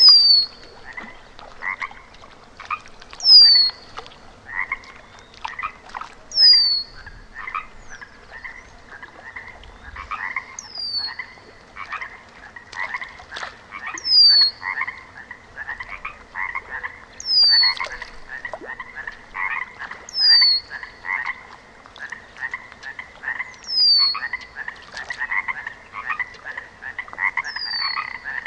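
A chorus of frogs croaking in dense, rapid pulses. Over it, a short, high call that falls in pitch repeats roughly every three seconds and is the loudest sound.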